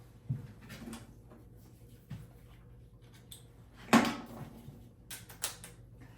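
Wooden vanity cabinet knocked and bumped as it is handled and set against the wall: a few separate thumps, the loudest a sharp knock about four seconds in, then a quick cluster of clicks.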